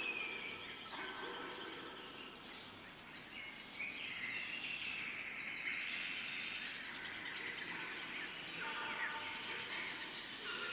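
Nature ambience of birds chirping over a steady high insect drone, with soft held notes of background music near the end.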